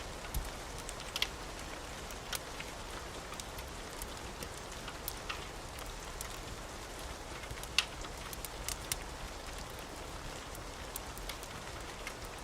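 Wood fire burning in a fireplace: a steady soft hiss with scattered sharp crackles and pops, the loudest pop about eight seconds in.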